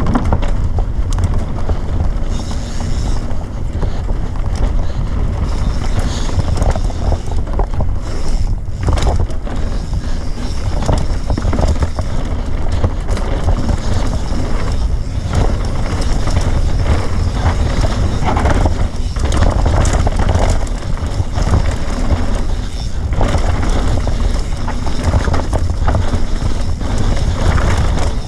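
Wind buffeting a rider's camera microphone during a fast run on a dirt enduro stage, mixed with rough, uneven trail rumble.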